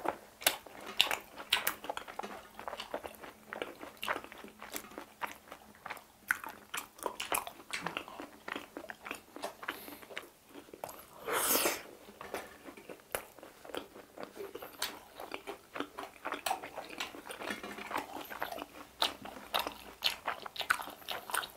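Close-miked crunching and chewing of crispy fried chicken bites, with many short crisp crunches throughout. There is a brief hiss about halfway through.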